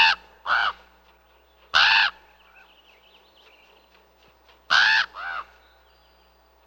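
Raven giving short, harsh, croaking calls, singly and in pairs, a couple of seconds apart: a pair at the start, one near two seconds in, and another pair about five seconds in.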